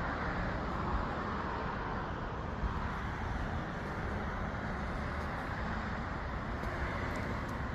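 Steady outdoor background noise, a constant hum like road traffic, with no single engine or event standing out.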